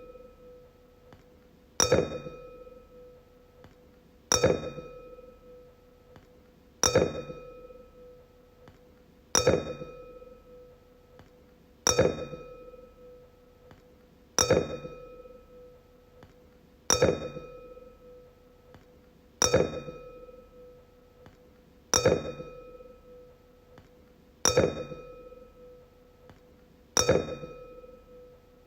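A wine glass struck over and over, about once every two and a half seconds, each tap a sharp clink followed by a clear ringing tone that fades away before the next tap.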